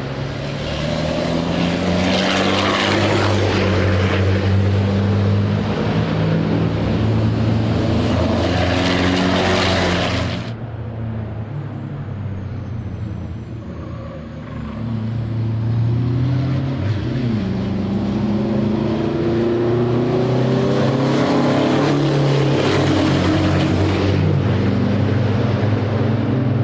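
Racing trucks' turbo-diesel engines running at speed on the circuit, loud throughout. The sound drops off abruptly about ten seconds in, then builds again with the engine pitch climbing as a truck accelerates.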